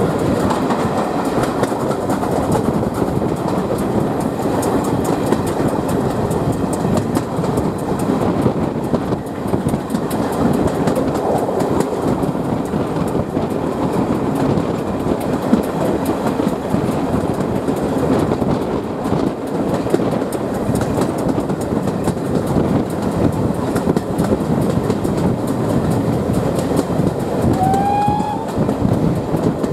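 Steam train hauled by GWR Mogul 9351 running at speed, heard from an open carriage window: a steady rumble and clatter of the carriage wheels on the rails. Near the end a brief rising high note sounds once.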